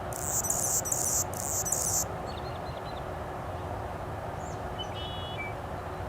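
Small songbird singing: a loud, very high buzzy twittering for about the first two seconds, then a few short, thin chirps.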